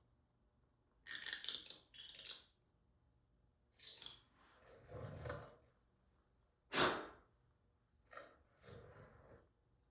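A metal hand tool scraping and clinking at a motorcycle's exhaust port in short separate strokes, about seven in all, the sharpest a little before the end.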